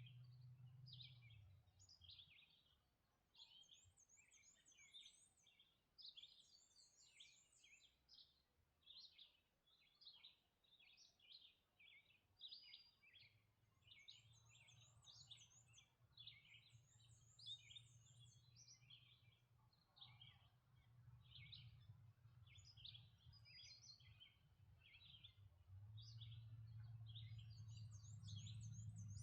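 Faint dawn chorus of several songbirds: dense, steady chirping, with a high buzzy trill coming in now and then. A low hum builds in the second half and is strongest near the end.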